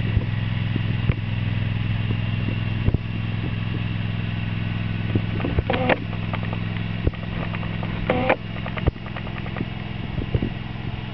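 Craftsman garden tractor engine running steadily, with scattered knocks and clatter, and brief higher-pitched sounds about six and eight seconds in.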